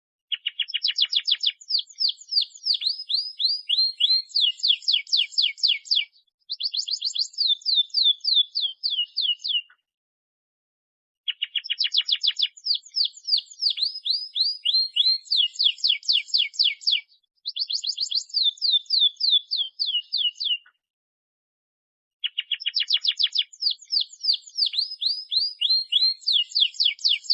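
Domestic canary singing fast trills of rapidly repeated sweeping notes, in phrases a few seconds long separated by short pauses. The same song sequence comes round again about every eleven seconds: a looped recording played as a lure song to get other canaries singing.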